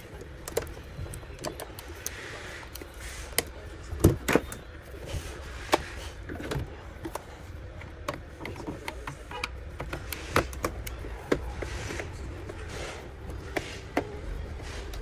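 Irregular sharp clicks and knocks of hand work on a Mercedes W221 power-folding side mirror under repair, loudest about four seconds in, over a low steady hum.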